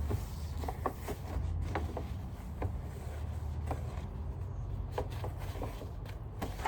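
Scattered light clicks and taps of a vacuum cleaner being handled and wrapped up, at irregular moments over a low steady hum.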